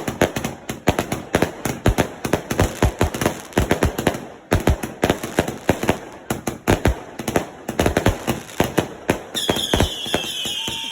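Fireworks going off in a rapid, continuous barrage of sharp bangs and crackles, several a second. A little before the end the bangs stop and a high, hissing whistle takes over, slowly falling in pitch.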